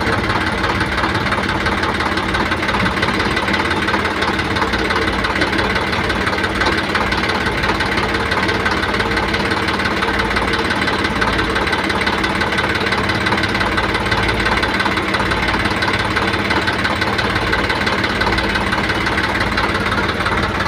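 Diesel engine of heavy earth-moving machinery, an excavator loading a tractor, running steadily without a break.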